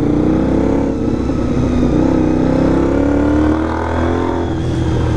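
Honda VFR400 motorcycle engine running at moderate revs while riding, its note holding fairly steady with small rises and dips in revs.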